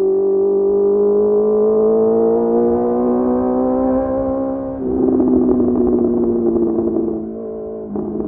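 Honda CBR650R inline-four with a Mivv MK3 aftermarket exhaust, its pitch rising steadily under throttle for about five seconds. The note then drops abruptly and turns rough and crackly as it slowly falls, settling lower near the end.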